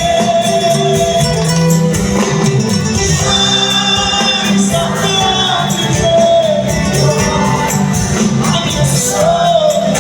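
Live band music: an instrumental passage of sustained melody lines over a steady beat.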